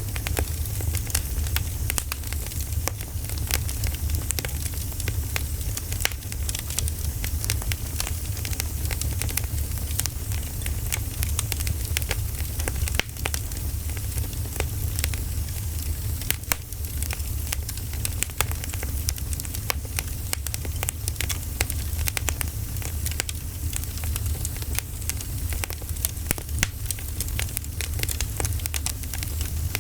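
Bonfire crackling and popping steadily, with many sharp snaps over a low, even rumble of the burning fire.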